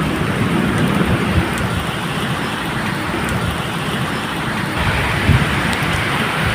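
Steady medium rain falling, a constant hiss, with low rumbles of distant thunder near the start and again about five seconds in.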